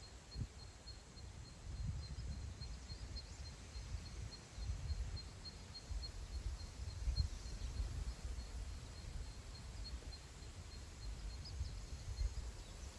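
Wind gusting across open grassland and buffeting the microphone as a low, uneven rumble. Over it a faint high chirp repeats evenly, about four times a second, with a few scattered faint bird calls.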